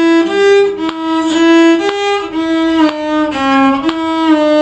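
Solo violin playing a short, slow phrase of single bowed notes, stepping around E (E, G, D sharp, D natural, C), changing about every half second, with slides between some notes. A steady click sounds about once a second beneath it.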